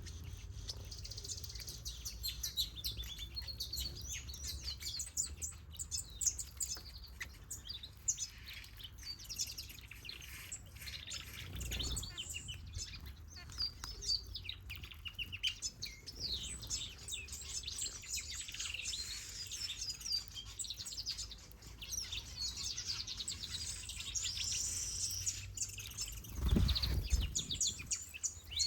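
Many small aviary birds, finches and softbills, chirping and twittering over one another in a steady stream of short high calls. A dull low thump comes near the end, and a fainter one partway through.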